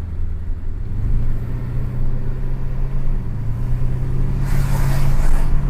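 Mercedes-Benz 500 SE's 5.0-litre V8 running with its muffler deleted, accelerating, the exhaust note rising slowly in pitch. A rushing hiss joins in about four and a half seconds in.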